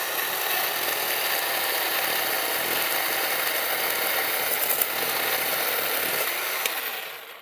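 Black and Decker LCS1020 20V MAX cordless electric chainsaw cutting slowly through frozen wood, its motor running steadily. Near the end the motor winds down with a falling pitch and stops.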